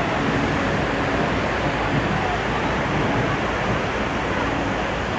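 Fast-flowing floodwater in a swollen river, rushing steadily.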